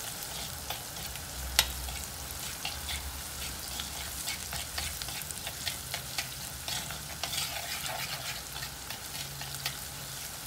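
Chopped shallots and garlic sizzling in coconut oil in a clay pot while being browned, stirred with a steel spoon that scrapes and clicks against the pot. One sharper tap of the spoon comes about one and a half seconds in.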